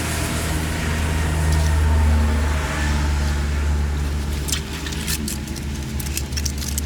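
An engine running steadily with a low hum, with a series of sharp light clicks from about four and a half seconds in.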